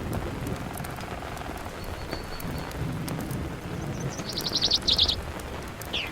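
Steady rain pattering with scattered sharp crackles from a campfire. A small bird gives a thin high whistle about two seconds in, then a loud, rapid high trill around four seconds in.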